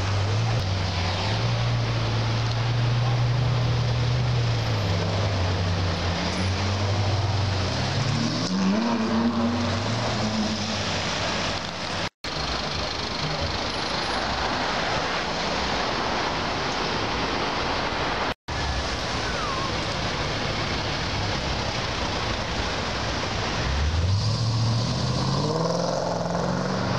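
Car engines and traffic noise on a city street. A steady engine hum gives way to an engine accelerating with a rising note about eight seconds in, and another rises near the end. The sound cuts out for an instant twice, where the recording is edited.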